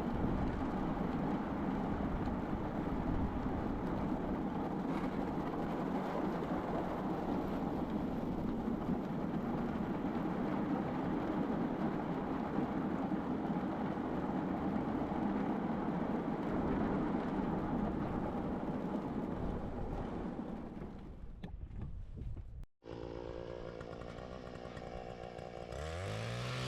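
A small engine running steadily. It fades away a little over 20 seconds in, and the sound breaks off sharply shortly after.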